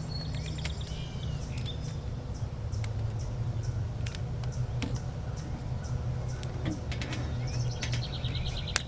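Birds chirping, with a fast trill near the end, over a steady low hum. Scattered sharp snaps come from rubber bands being stretched and released around a watermelon.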